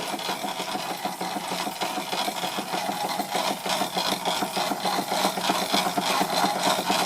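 Right-angled gear in a model steam mill engine's drive to a Wilesco fairground model, running with a steady, rapid clatter. It is very noisy, even at the quietest it can be adjusted to run.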